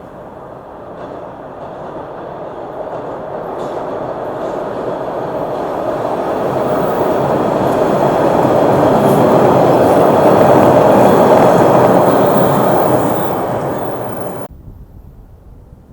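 Train running past on the rails: its wheel noise grows steadily louder for about ten seconds, peaks, begins to fade, and then cuts off suddenly near the end.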